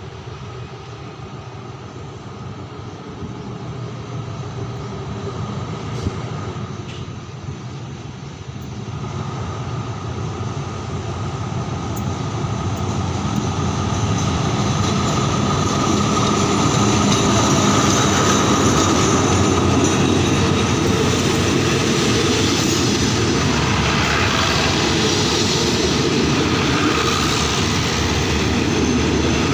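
Alsthom diesel-electric locomotive with an MTU engine hauling an express train into the station, growing louder over the first fifteen seconds or so as it draws closer, then staying loud and steady as the train rolls in.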